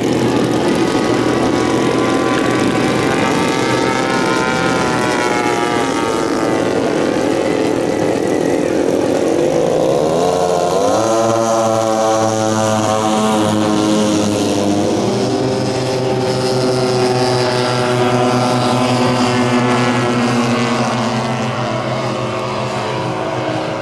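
Propeller engine of a giant-scale radio-control model airplane running. For the first ten seconds its pitch wavers; about ten seconds in it climbs and then holds at a higher, steady speed.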